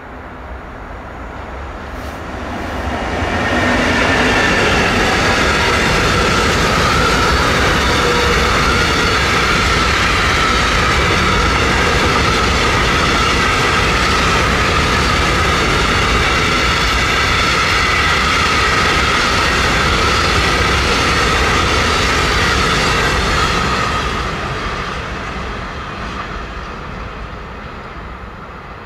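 A freight train of bogie tank wagons, hauled by an electric locomotive, rolls past with a steady rumble of wheels on rail and a steady high ringing tone above it. The sound builds over the first few seconds as the train draws close, holds loud while the wagons pass, and fades away near the end as the train recedes.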